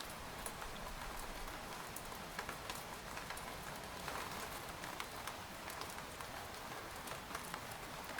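Steady rain falling on a tent, a soft even hiss dotted with individual drops ticking sharply on the fabric at uneven intervals.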